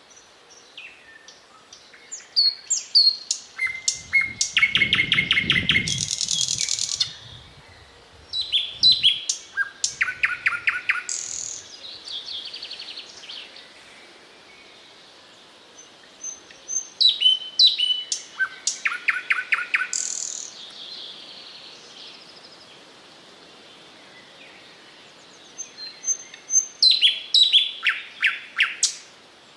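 Thrush nightingale singing: four loud phrases of rapid repeated notes, clicking rattles and trills, each a few seconds long, with pauses between them. A brief low rumble sits under the first phrase.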